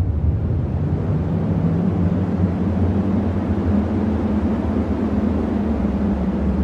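Cyclone wind as a steady, loud, deep rumble with no gusts or breaks.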